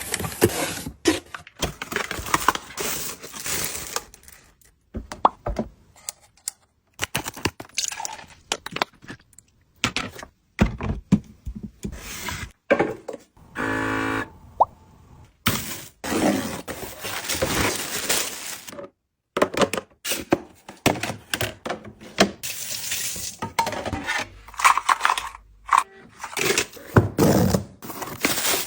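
Items and packaging being handled during an unboxing: a string of taps, thunks, scrapes and rustles, with a short buzzing sound about halfway through.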